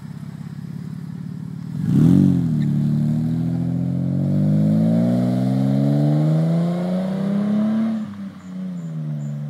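Dodge Avenger's exhaust, through a high-flow catalytic converter and a new aftermarket muffler, being revved: idling, then a quick blip about two seconds in, then a slow steady climb in revs that falls back to idle about eight seconds in.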